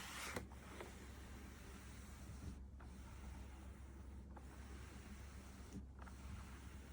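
Near silence: faint steady hiss and low hum, with a brief rustle at the very start.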